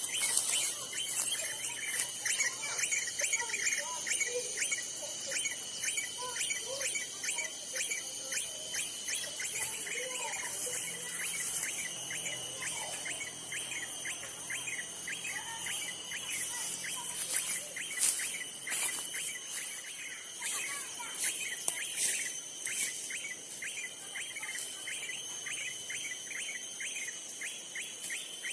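Outdoor birds chirping and calling, with rapid repeated chirps over a steady, high-pitched insect drone.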